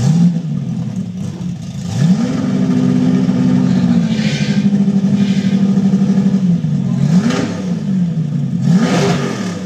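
Ford Thunderbird's engine being revved. A short blip comes at the start, then a rev about two seconds in that is held high for about four seconds before dropping back, then two more quick blips near the end.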